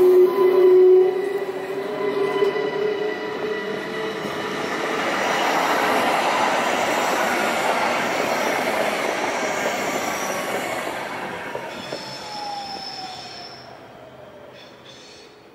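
Train running past on the Gotthard mountain line, its wheels squealing in steady high tones over the rumble of the wagons. The sound peaks midway, then fades as the train draws away, with one tone sliding down in pitch near the end.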